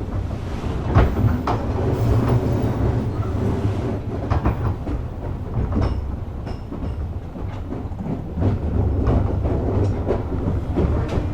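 JR West 201 series thyristor-chopper electric train running, a steady low rumble with irregular clicks as the wheels cross rail joints.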